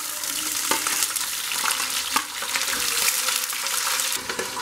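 Sliced green capsicum sizzling in hot oil in a frying pan as it is tipped in and stirred, with a spoon knocking against the pan a few times.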